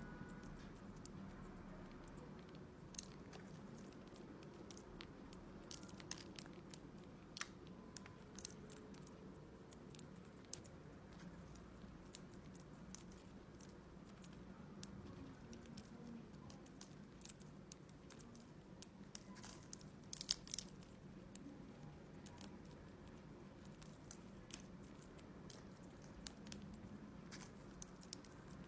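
Pet bird eating its regular food: faint, irregular clicks and crunches from its beak, with a short cluster of louder ones about two-thirds of the way in, over a low steady hum.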